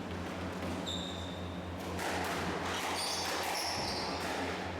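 Squash rally: court shoes squeaking on the floor and the ball knocking off racket and walls, over a steady low hum.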